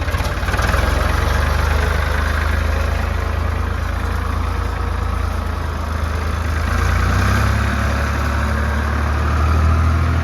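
Ford farm tractor's three-cylinder engine running steadily with a low drone, its tone shifting about seven seconds in and growing a little louder near the end.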